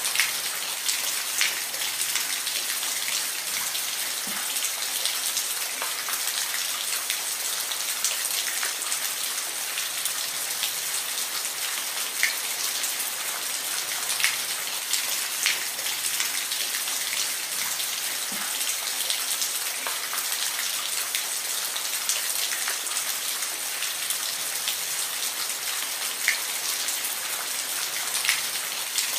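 Steady rain falling, an even hiss with individual drops ticking sharply on a hard surface every second or two.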